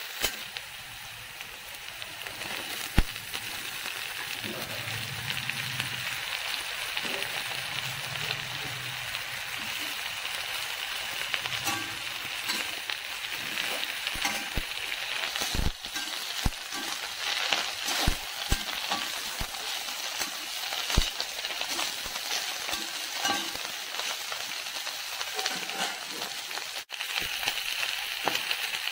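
Oil sizzling steadily in a metal pan as a tempering of dried red chillies, peanuts and garlic fries, then chopped cabbage frying in it. A spatula stirs and now and then knocks sharply against the pan.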